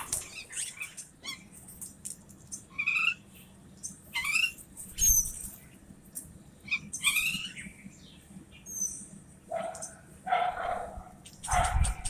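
Birds calling, mynas among them: short squawks and thin chirps every second or two, then a run of harsher, lower calls near the end.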